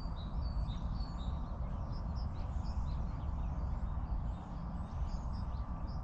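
Small songbirds chirping and twittering, with a few short whistled notes near the start, over a steady low rumble.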